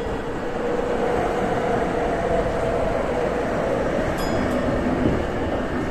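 Saitama Railway 2000 series electric train running at speed, heard from inside the front car: a steady rumble of wheels on rail with a faint, even motor whine. A brief faint click with a short ring comes about four seconds in.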